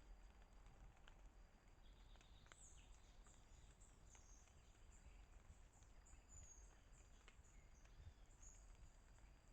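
Near silence with faint, high-pitched bird chirps coming and going, a faint steady high tone and a few small ticks.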